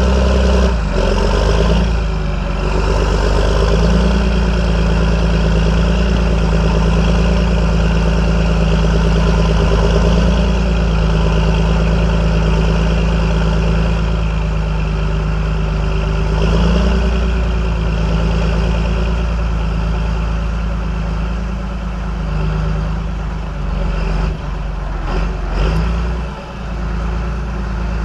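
John Deere 8420 tractor's six-cylinder diesel engine running at a steady speed, its note wavering briefly near the end.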